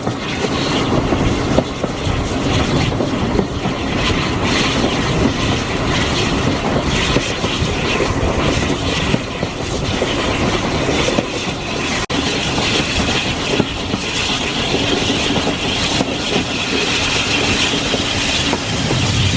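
Heritage railway train running along the line, heard from on board the carriage: a steady rumble with the wheels clattering over rail joints and the coach rattling. The sound cuts out for an instant about twelve seconds in.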